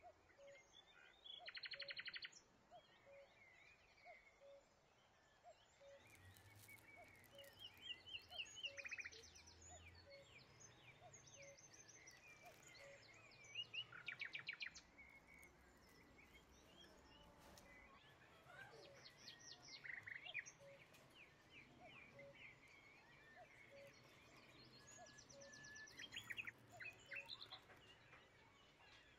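Quiet birdsong: birds chirping and giving rapid trills every few seconds, over a faint short note that repeats about every two-thirds of a second.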